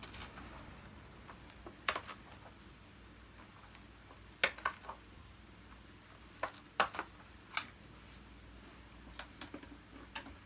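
Scattered sharp clicks and knocks of the plastic parts of a Hoover Purepower U3450 upright vacuum cleaner being handled and taken apart by hand, about a dozen in irregular clusters.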